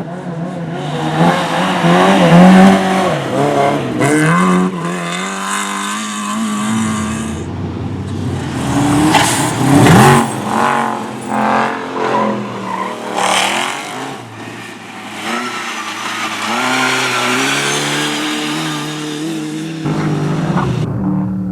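Rally car engines revving hard, their pitch climbing and dropping repeatedly as the cars accelerate, shift and brake. It is loudest about two and ten seconds in, and a steadier engine note follows near the end.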